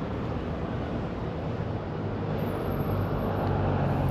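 Vehicle engine and road noise, a steady low rumble that grows louder toward the end as a vehicle passes close by.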